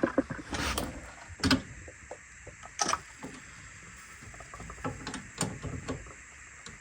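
Scattered small clicks and knocks of hands and a spanner working at a car's brake bleed nipple, a few sharp ones a second or so apart over an otherwise quiet stretch.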